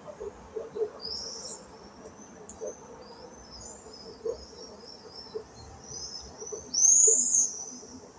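Birds calling outdoors: a run of short, high-pitched chirps and squeals, with one louder rising call about seven seconds in.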